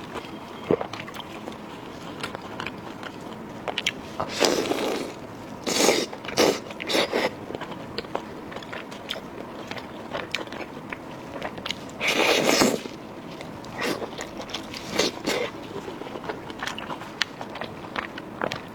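Close-miked eating: wet chewing and biting with many small mouth clicks, and a few louder bursts of biting and tearing at the food, the loudest about twelve seconds in.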